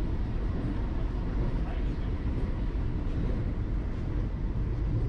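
Steady low rumble inside the coach of a Vande Bharat Express electric multiple unit running at about 51 km/h.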